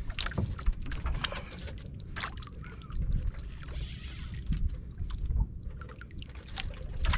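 Water sloshing against a small boat's hull with a low rumble, broken by a few sharp knocks.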